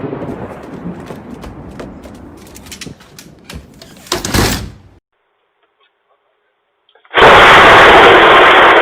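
Thunder rumbling with scattered crackles, and a sharp crack about four seconds in. After a brief dropout, a very loud, distorted burst of noise sets in about seven seconds in, typical of a close lightning strike overloading the microphone.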